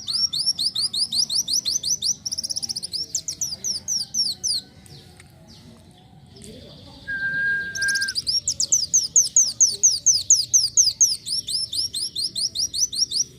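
Kolibri wulung (a sunbird) singing a rapid, chattering song of sharp, high, downward-sweeping notes, about six a second. It comes in two long runs with a pause of about two seconds between them, and a single steady lower whistle-like tone lasts about a second around the middle.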